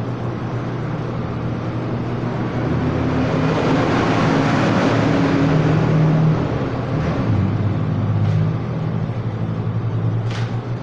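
A motor vehicle's engine and road noise: a steady low hum under a rushing noise that builds to its loudest about four to six seconds in, then eases off.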